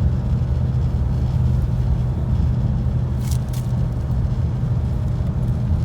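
Ford S-Max 2.0 TDCi diesel engine held at steady, raised revs on the road, heard from inside the car as a steady low drone with road noise, while it burns off its blocked diesel particulate filter. Two short clicks come about three seconds in.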